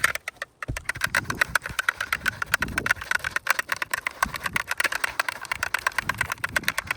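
Soft-bristled vacuum brush scrubbing back and forth over asphalt composition shingles, a rapid run of scratchy strokes several times a second, wiping to check the granules are holding.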